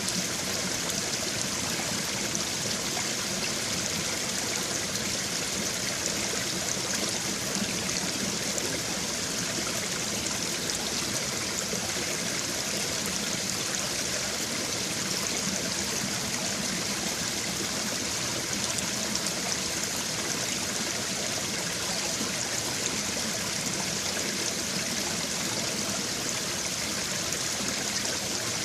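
Babbling brook: shallow stream water running and burbling over stones, a steady, even rush with fine gurgling detail throughout.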